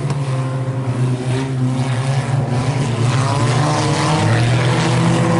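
Several IMCA Sport Compact race cars running together on a dirt oval, their four-cylinder engines held at a steady high drone with slight rises and falls in pitch as they go through the turns.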